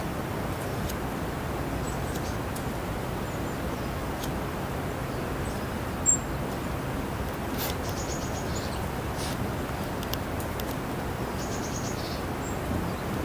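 Small wood fire burning in a cut-out oil can: a steady rushing noise with scattered faint crackles and one sharp pop about six seconds in.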